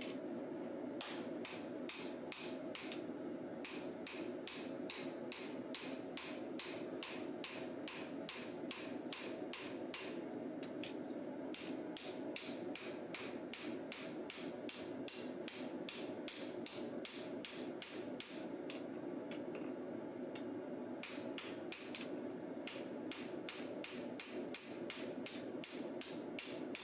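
Forging hammer striking a hot high-carbon steel katana blade on an anvil to draw out the bevels, in quick ringing blows of about three a second with a couple of short pauses. A steady low rushing noise runs underneath.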